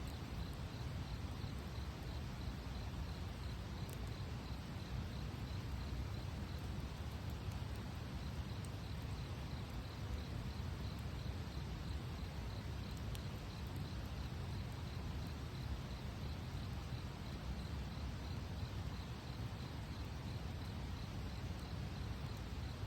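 Wood fire burning with a steady low rush and a few sharp pops, while an insect chirps faintly and evenly.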